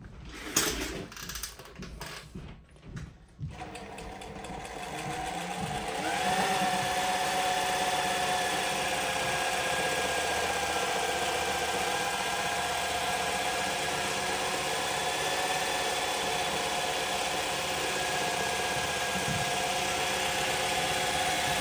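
Juki LZ-271 zigzag industrial sewing machine: a few clicks and knocks at first, then it starts up and gathers speed, reaching a steady high-speed run about six seconds in and sewing on at an even pitch.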